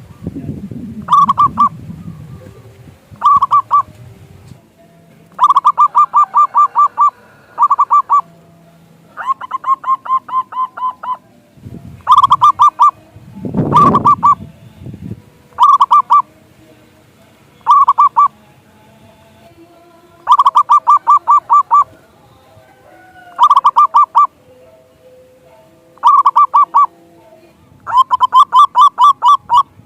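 Zebra dove (perkutut) calling over and over in short bursts of rapid cooing notes, about a dozen bursts with pauses between them. Low rumbling noise comes in at the start and again around the middle.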